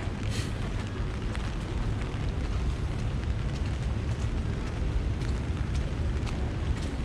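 Steady low rumble of wind and rain noise on an action camera's microphone during a rainy city walk, with scattered small ticks through it.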